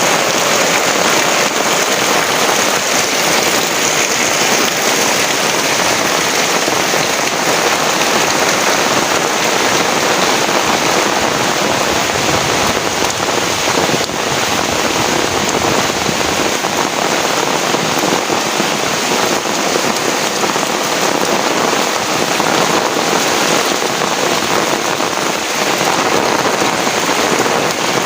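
Heavy rain pouring down, a dense steady hiss of drops hitting surfaces.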